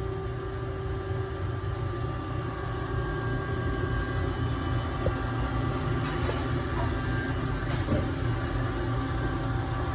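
Machinery running: a steady low rumble with a few steady tones over it, and a brief click about eight seconds in.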